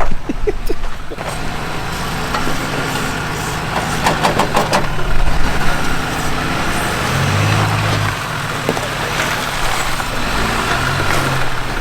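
Off-road truck engine running at low revs while crawling over trail rocks, with a cluster of sharp clicks about four to five seconds in.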